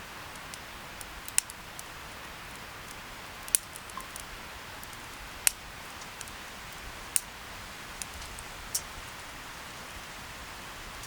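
Wood campfire crackling: a steady hiss with scattered sharp pops at irregular moments, about five of them loud.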